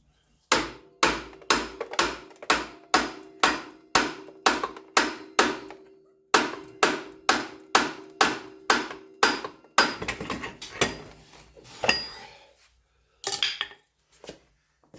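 Hammer striking metal, about two to three blows a second, in two runs of roughly a dozen strokes with a short pause between, a steady metallic ring sounding under the blows. A few lighter, irregular clanks follow.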